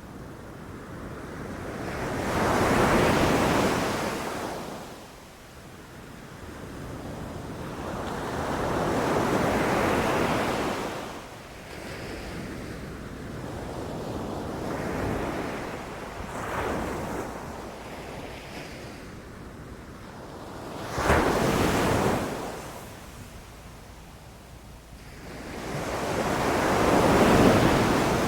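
Ocean surf breaking on a beach, rising and falling in surges every five or six seconds, with one sharper crash about three-quarters of the way through.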